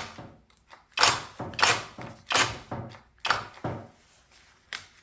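A series of short knocks and rubbing sounds, about seven of them and each fading quickly: handling noise as a cordless drill is gripped and shifted into position, with its motor not running.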